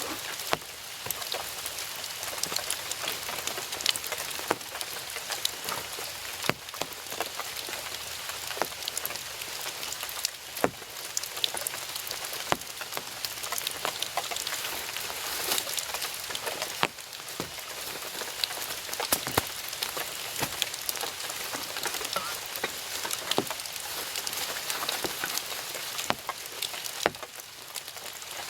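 Heavy rain falling steadily, with single large drops striking close by as sharp, irregular ticks.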